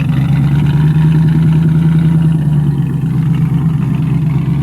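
TVR Chimaera's 4.6-litre Rover-derived V8 idling steadily through its exhaust, still cold a minute after a cold start, once the throttle blips have stopped.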